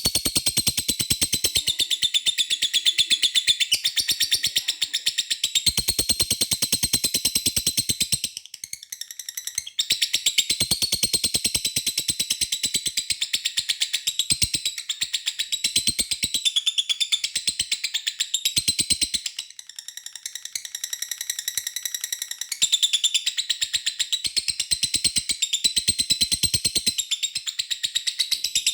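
Lovebird singing its long 'ngekek' song: a fast, continuous, high chattering trill that breaks off briefly twice, about a third and about two-thirds of the way through. The unbroken length of the song is the sign of a bird in top singing condition after its conditioning ('tune up').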